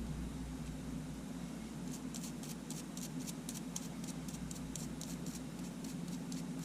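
A quick run of light, evenly spaced clicks, about five a second, starting about two seconds in and stopping just before the end, from small parts and tools handled while reassembling a camera. A steady low electrical hum runs underneath.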